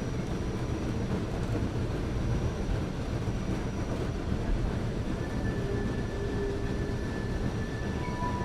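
Excursion train rolling along the rails, a steady low rumble. A faint thin high squeal comes in about five seconds in and holds.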